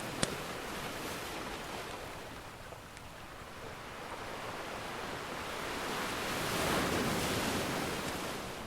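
Ocean surf washing in, swelling to its loudest about two-thirds of the way through and then easing off. A single sharp pop from a crackling wood fire sounds just after the start.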